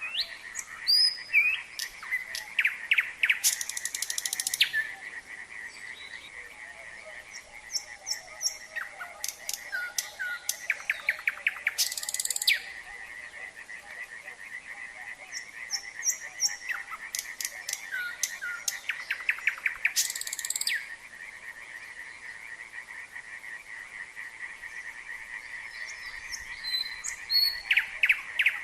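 Nightingale singing in separate phrases a few seconds apart: short whistled notes and rapid dense trills. Beneath it, a continuous chorus of frogs trills at a steady pitch.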